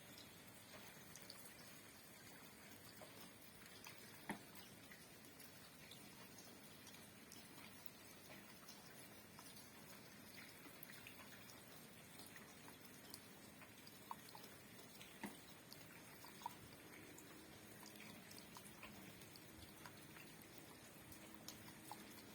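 Faint steady rain with scattered drips, a handful of single drops standing out louder.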